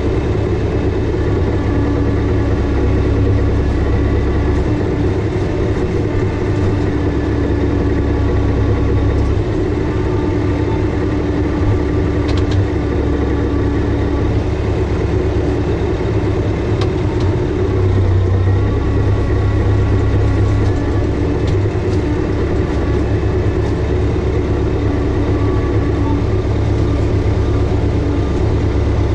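Massey Ferguson 5400-series tractor's diesel engine running steadily at idle, its note shifting a little about a third and two-thirds of the way through.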